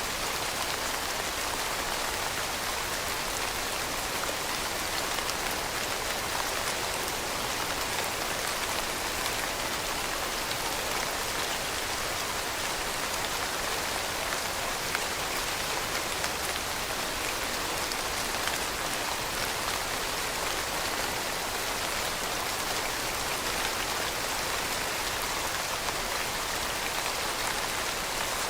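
Steady rain falling on a surface, an even hiss of many drops without pause or change.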